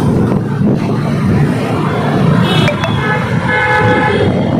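Steady road-traffic noise with vehicle horns honking, one short toot about two and a half seconds in and a longer one a second later.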